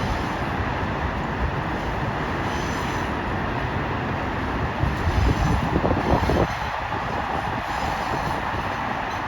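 Train running past on the tracks, a steady rumble of wheels on rail with a louder stretch of rapid wheel clatter about five seconds in, lasting a second and a half.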